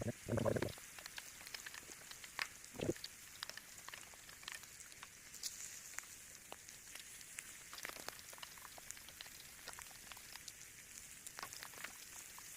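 Chicken breast pieces frying in a pot, a faint steady sizzle with scattered crackles and pops. Two or three duller knocks in the first few seconds.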